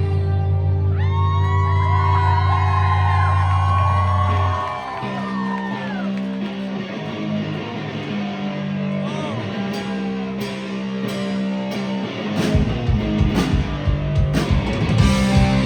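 Live rock band playing: an electric guitar lead with bending notes over sustained low chords, which drop away about four seconds in. Cymbal and drum hits build up, and the full band with bass comes back in near the end.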